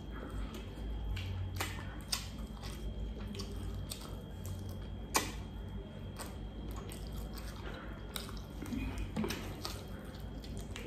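Close-up eating sounds of a man chewing beggar's chicken off the bone by hand: wet chewing and lip-smacking with scattered irregular clicks, the sharpest about five seconds in, over a low steady hum.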